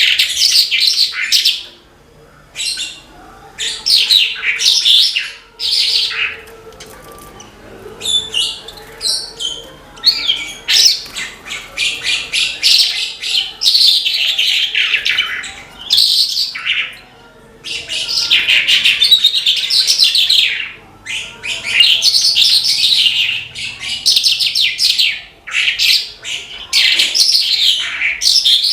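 Horsfield's bush lark (branjangan) singing vigorously: rapid, varied twittering phrases of one to several seconds, broken by short pauses.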